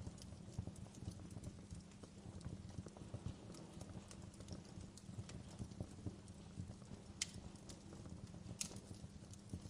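Wood fire crackling: irregular small pops and snaps, with two louder snaps late on, over a low steady rumble.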